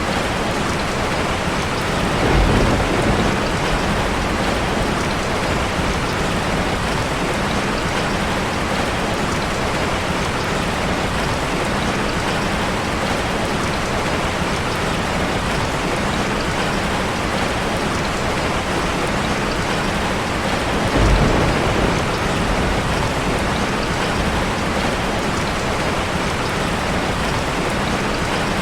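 Heavy rain pattering steadily on a car, with two brief low rumbles of thunder: one a couple of seconds in, and another about three-quarters of the way through.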